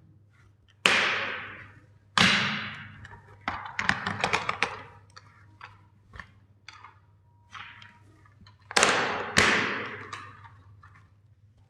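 Toys and their packaging being handled: four sharp knocks, each trailing off over about a second, with a quick run of clicks and taps between them.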